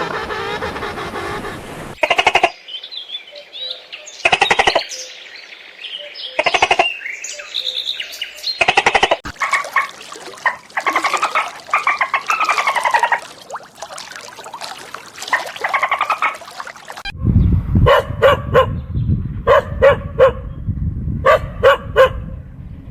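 Birds calling: four short separate calls about two seconds apart, then a run of gliding chirps, then quick groups of three or four calls over a low rumble near the end.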